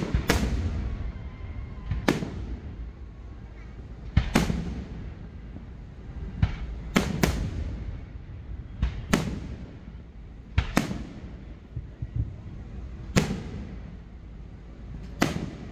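Aerial firework shells bursting: about a dozen sharp booms, one every second or two and some in quick pairs, each trailing off in a low rumble.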